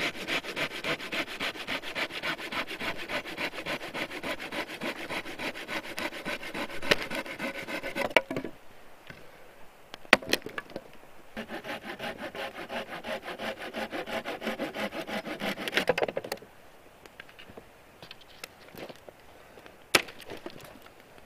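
Hand saw cutting firewood in steady back-and-forth strokes, about three a second. It goes in two bouts with a short pause and a few knocks between them.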